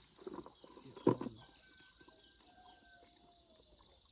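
Insects chirping steadily in a continuous, rapidly pulsing high chorus. A brief louder knock or rustle stands out about a second in.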